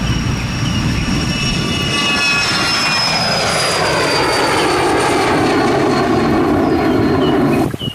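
Airplane engine passing by, its whine falling steadily in pitch as it goes. It starts suddenly and cuts off abruptly near the end.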